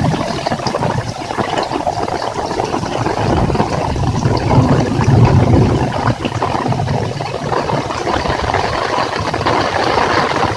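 Heavy rain pouring, with wind buffeting the microphone as a low rumble that swells about four to six seconds in.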